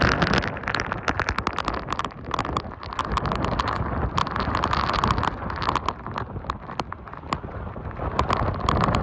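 Hurricane-force wind and heavy rain: raindrops strike the microphone as a dense run of sharp ticks over a continuous rush of wind.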